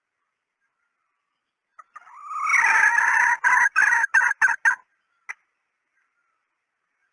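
Female red junglefowl calling: a rising call about two seconds in that breaks into a quick run of about five short clucks, followed by one single short note. A decoy call used to lure junglefowl.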